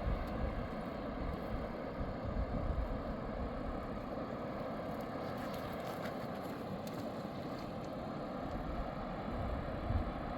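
Steady rushing of a fast mountain river, with low gusts of wind buffeting the microphone.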